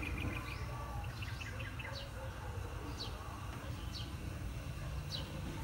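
Birds chirping: a short, high note that drops in pitch repeats roughly once a second, with a quick run of rapid chirps in the first two seconds, over a steady low background rumble.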